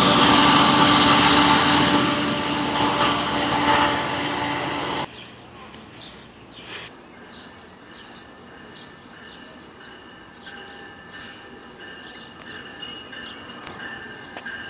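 GO Transit diesel locomotive and train passing close at speed: loud engine and wheel noise with a steady engine hum. It cuts off abruptly about five seconds in, leaving the faint sound of another train approaching from a distance, with light clicks and a thin high ringing.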